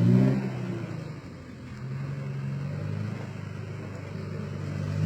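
Mitsubishi Canter 4x4 truck's engine working off road: it revs up at the start, settles back to a steady pull through the middle, and revs up again near the end.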